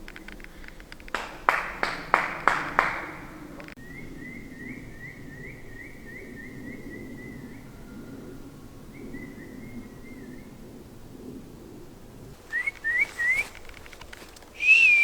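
A few short, loud, sharp sounds about a second in, then a run of short rising whistled notes. Near the end come three quick rising whistles.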